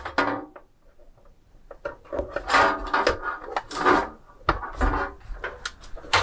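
A SATA cable being pulled up through a desktop computer case: hands and cable rubbing and scraping against the case, with a few light knocks, in irregular bursts.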